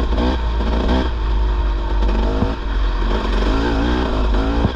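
Dirt bike engine revving up and down repeatedly while riding through mud and ruts.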